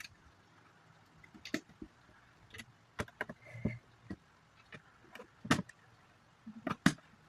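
Plastic Lego bricks being handled and pressed together: irregular sharp clicks and taps, the loudest a little past the middle and again near the end.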